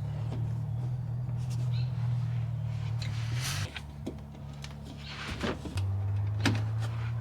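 Clicks, knocks and short scrapes of hand work on a car's plastic under tray, over a steady low hum that steps in pitch twice.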